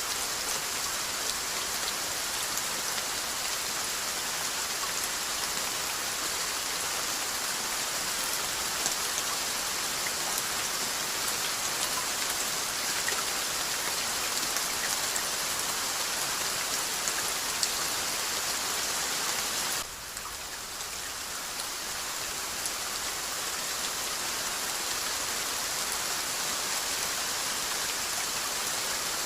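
Steady rainfall: a dense, even hiss with scattered small droplet ticks. The level dips briefly about twenty seconds in, then comes back up.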